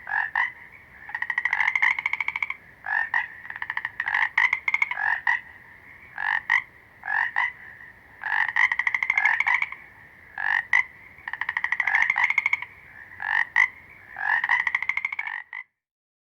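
Frog calling: a series of rattling croaks, short single notes alternating with longer trills of a second or so, repeating without a break and stopping near the end.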